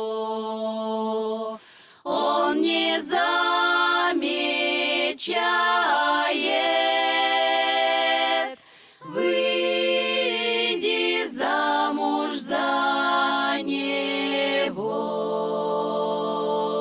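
A small vocal ensemble singing a Russian folk song a cappella, several voices in harmony holding long notes and sliding between them. There are two brief breaks for breath, one near two seconds in and one about nine seconds in.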